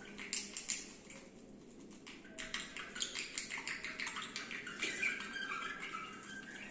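Birds chirping and squawking in a rapid run of short calls, which grows busier about two and a half seconds in.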